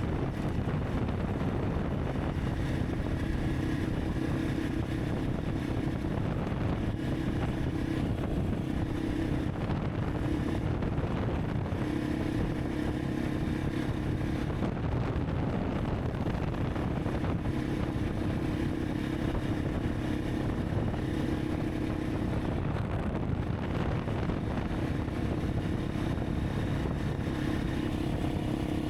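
Honda CRF300 Rally's single-cylinder engine running under way, its note wavering now and then, with wind buffeting the microphone.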